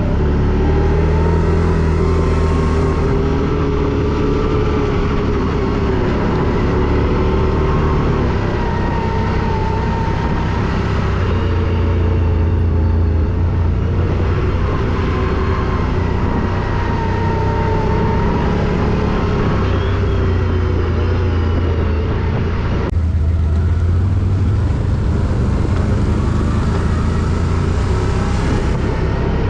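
Quad bike (ATV) engine running loud and continuous while riding, its pitch rising and falling with the throttle.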